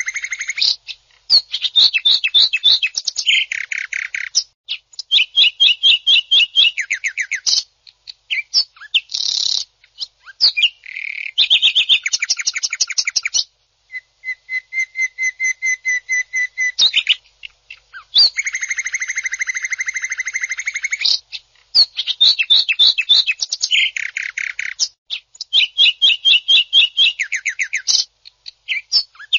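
Cucak ijo (green leafbird) singing its coarse rapid-fire "tembakan" song: loud bursts of fast repeated notes, each lasting a second or two, with short breaks between.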